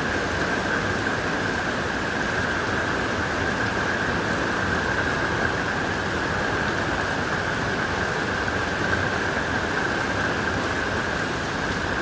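Steady rushing noise, like heavy rain, with an even high-pitched hum running through it.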